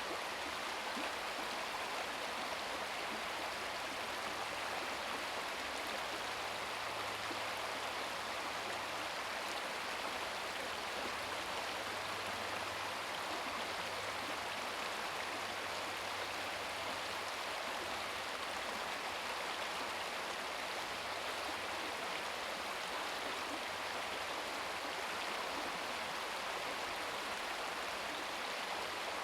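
Babbling brook: a small stream running steadily, an even rushing and burbling of water.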